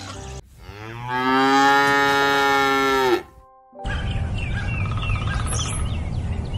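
A cow mooing once, a long call of nearly three seconds that drops in pitch as it ends. After a brief break, outdoor ambience with small birds chirping.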